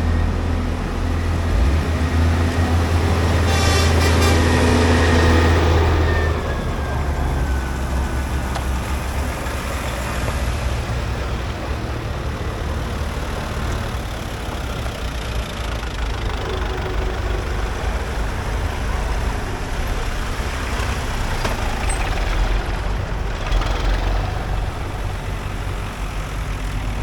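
Heavy diesel engine running steadily, with a deep low hum that is loudest in the first six seconds and then eases to a steadier drone.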